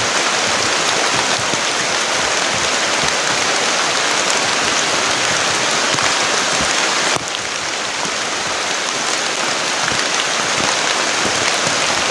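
Heavy rain pouring down as a steady hiss. About seven seconds in it cuts abruptly to a slightly quieter, duller rush of water.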